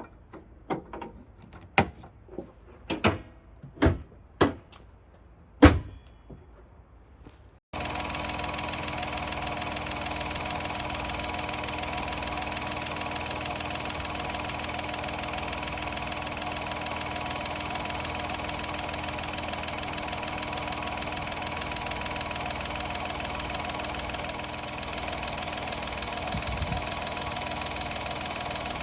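Several sharp knocks and clicks, then from about a quarter of the way in the Daihatsu Taft's three-cylinder turbo engine idling steadily.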